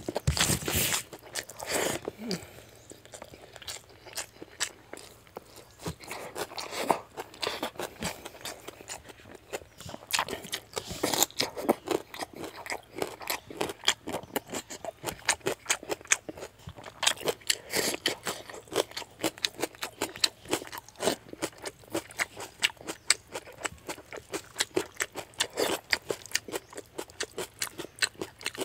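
A person chewing and crunching fish head curry and rice eaten by hand, with many short wet clicks and smacks of mouth and fingers, coming thicker from about ten seconds in.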